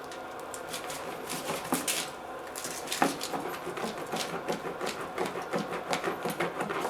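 Cutting through a hot deep dish pizza: irregular crunching, scraping and tapping of the blade through the crust and against the surface beneath, with a sharper knock about three seconds in.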